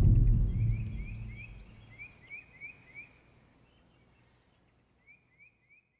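A deep, drum-like music note fades out over the first second and a half. A small songbird chirps faintly behind it, in short rising notes that come in runs of three or four at about three a second, three runs in all.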